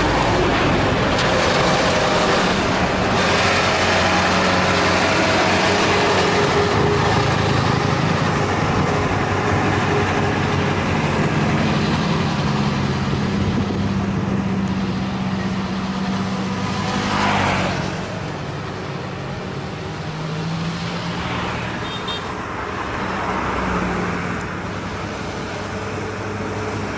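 Heavy truck's diesel engine running under load, its pitch wavering, with a brief rush of noise about two-thirds of the way through and the sound a little quieter after it.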